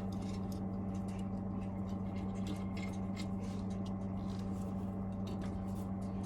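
Steady low hum with faint, scattered light ticks and rustles of small parts being handled.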